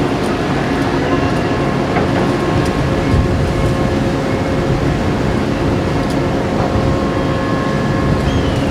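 Steady low rumble of the transport ship JS Osumi's engines and machinery running, with a faint steady hum over it. A short high chirp comes near the end.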